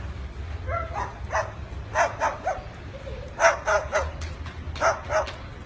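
Short, sharp bark-like yaps in quick runs of two or three, about ten in all.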